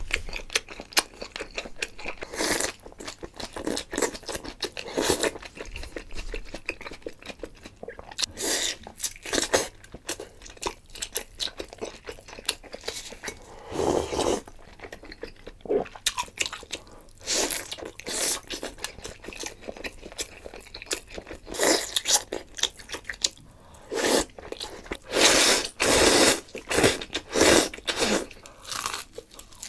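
Close-miked chewing and crunching of food by a person eating, an ASMR mukbang recording. Crisp bites and chews come irregularly, in louder bouts several times.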